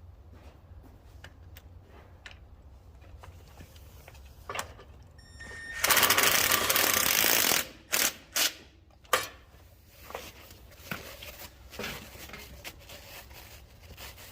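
Paper towel being pulled off a roll and torn: a loud rustling rip of nearly two seconds about six seconds in, then three short tearing sounds, with light crinkling afterwards.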